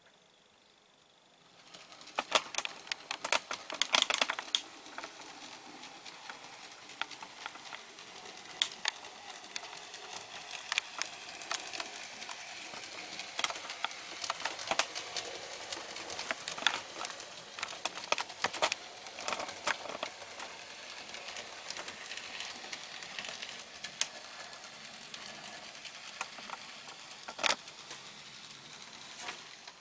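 A 00 gauge model locomotive running on DC, its electric motor whirring steadily as it hauls a coach over handbuilt track, with frequent sharp clicks from its wheels crossing rail joints and pointwork. The sound starts about two seconds in, with a busy run of clicks just after, and stops just before the end.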